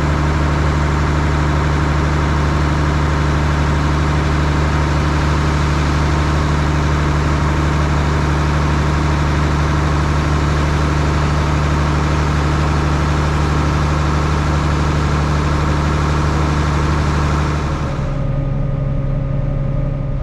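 Large diesel engine of farm harvest machinery running at a steady speed, a constant drone with a steady hum. A little before the end it switches abruptly to a quieter, different engine hum.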